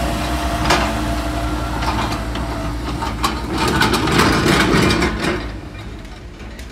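Heavy workshop machinery running with a steady low hum and repeated metallic knocks and clatter, growing louder in the middle and easing off about five seconds in.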